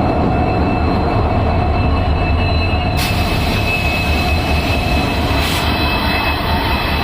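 Train wheels running on rails close by, a loud steady rumble with faint high steady squealing tones.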